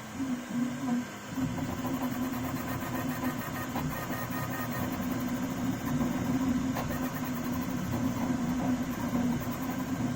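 Prusa CORE One 3D printer running, with a steady, slightly wavering tone over mechanical hum: the squeak the printer is making. A couple of faint clicks sound partway through.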